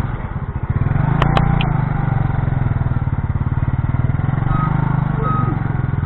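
Small motorcycle engine running steadily at a constant speed, with two sharp clicks a little over a second in.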